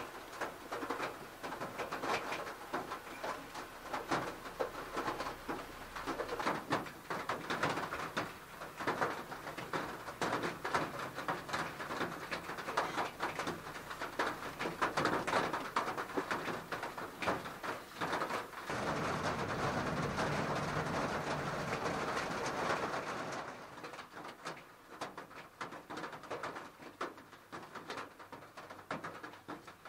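Heavy rain pattering on the roof and windows of a Honda N-VAN, heard from inside the cabin as a dense, irregular spatter of drops. A louder, steadier rush of rain comes a little past halfway and lasts about four seconds, then the patter turns lighter and sparser.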